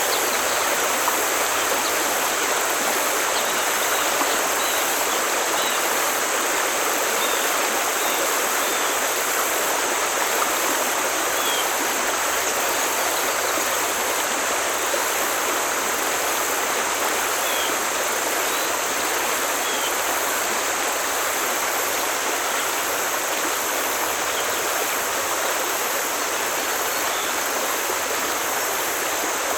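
Forest stream flowing with a steady, even rushing sound, with a few faint short high chirps here and there.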